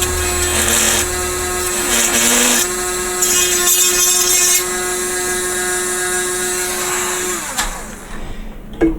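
A small electric power tool sanding down a plastic model kit part, its motor running at a steady pitch with scratchy rasping spells as the part is pressed to it. It is switched off about seven and a half seconds in and winds down with a falling pitch.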